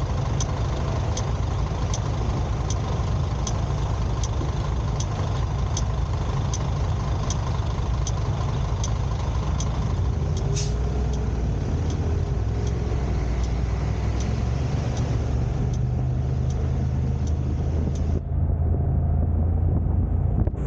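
Car on the road, a steady low rumble of engine and road noise, with a sharp tick repeating about every 0.6 seconds. Near the end the ticking stops, the top of the sound drops away and the rumble grows louder.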